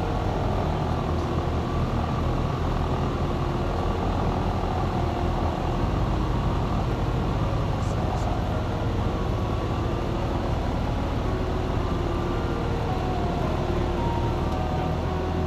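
Cessna 172's piston engine and propeller running steadily in flight, heard from inside the cockpit.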